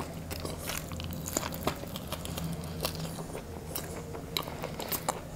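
A person biting into and chewing a piece of mutton in curry, close to the microphone, with many small clicks and smacks of the mouth.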